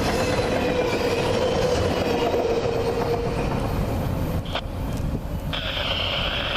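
Freight cars of a CN train rolling past at about 40 mph, with steady wheel-on-rail rumble and a high, steady ringing tone that fades about halfway through. A higher whine comes in near the end, and the sound drops off abruptly.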